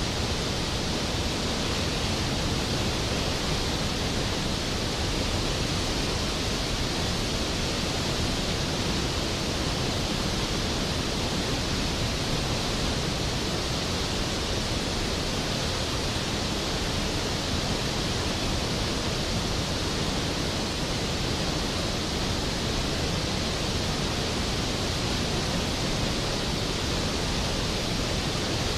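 Skógafoss waterfall: a large volume of water falling and crashing onto the pool below, a steady, full roar of water with no breaks.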